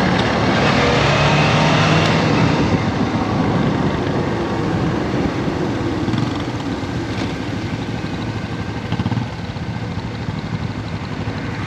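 Motorcycle engines running while riding, under a loud, steady rush of road and wind noise.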